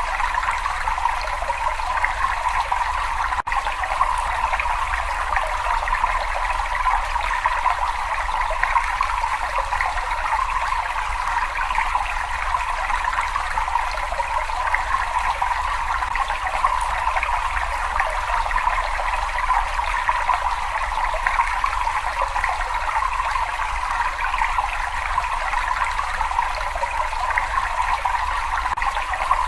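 Running water trickling and splashing in a steady, even rush with no pauses.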